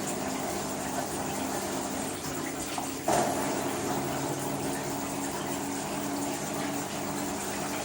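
LG WT-R852 direct-drive washing machine filling with water: a steady rush of incoming water over a low hum. The rush gets suddenly louder about three seconds in.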